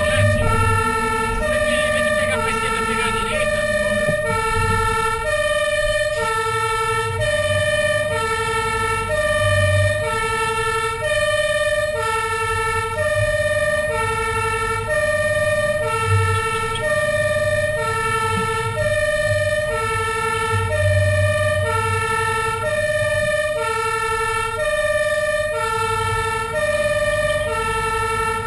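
Fire engine's two-tone hi-lo siren, alternating steadily between a high and a low pitch, each held a little over half a second, over the low rumble of the truck.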